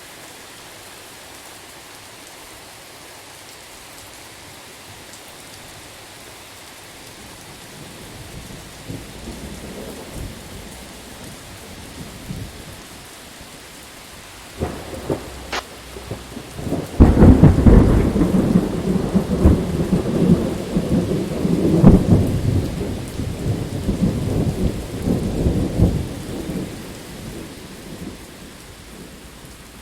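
Steady rain falling as a thunderstorm rolls in: a low rumble of thunder builds about a third of the way in, a sharp crack comes about halfway, then a loud crackling peal of thunder rumbles on for about ten seconds before fading back to the rain.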